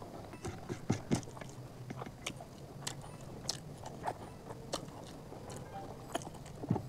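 A person chewing a mouthful of chicken curry and rice eaten by hand, with soft, irregular wet clicks and smacks of the mouth.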